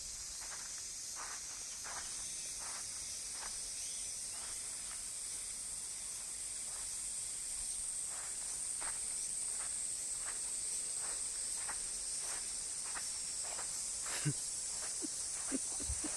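Steady high-pitched insect chorus, with faint ticks at a regular pace of about one and a half a second and a sharper knock near the end.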